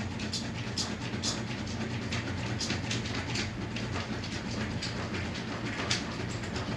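A steady low mechanical hum with sharp clicks repeating on top of it, about two to three a second, like a train running over rail joints.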